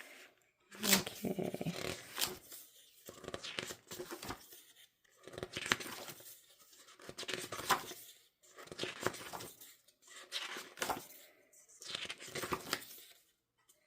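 Glossy photobook pages being turned one after another: about seven papery swishes, one every second and a half or so.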